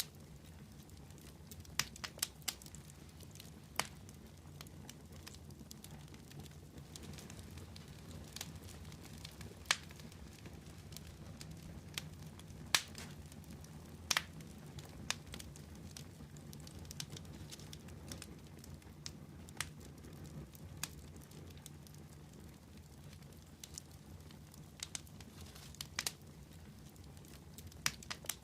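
Fire crackling: irregular sharp pops and snaps, a few much louder than the rest, over a low steady rumble.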